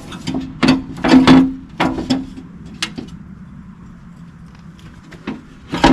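Knocks and clanks of an aluminum UTV door being worked into place on its hinges: a run of sharp, loud knocks in the first three seconds, then a quieter stretch and one more knock near the end.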